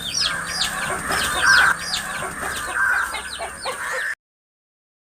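Many chicks peeping in short, high, falling chirps, with a mother hen clucking, loudest about one and a half seconds in. The sound cuts off suddenly about four seconds in.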